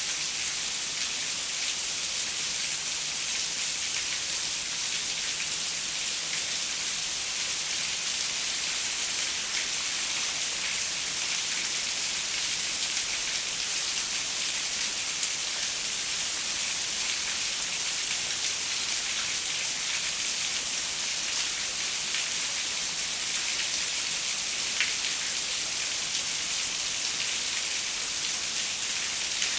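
Steady rain on a window, an even hiss with scattered small drop ticks.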